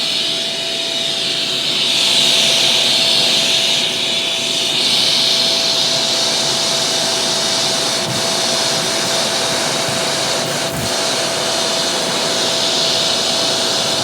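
Shark Professional Powered Lift-Away DLX (NV586) vacuum cleaner running: a loud, steady rush of air over a constant tone, with the air sound shifting slightly in the first few seconds and a brief knock about eleven seconds in.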